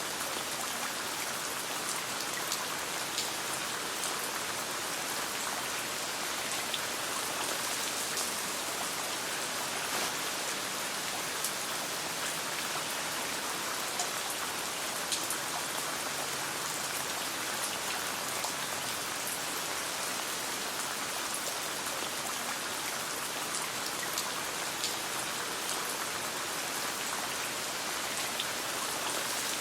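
Steady rain falling, with scattered sharp crackles from a campfire.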